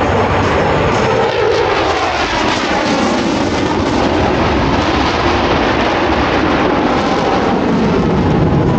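Jet noise from Blue Angels F/A-18 Super Hornet fighters flying past: a loud, steady roar with faint tones sweeping up and down through it as the jets move.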